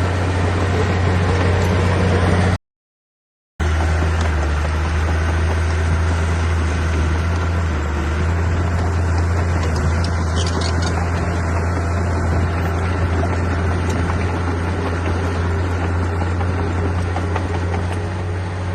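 Heavy earthmoving machine's diesel engine running steadily, with a deep, even hum, cut off by about a second of silence near the start before it carries on unchanged.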